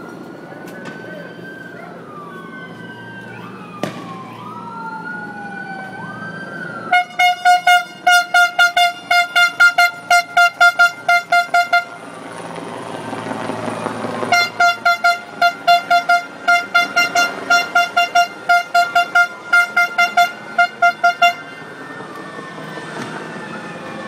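Police vehicle sirens: several wailing sirens rise and fall over one another. Twice they give way to a louder, rapid pulsing horn tone that beats about three to four times a second for several seconds.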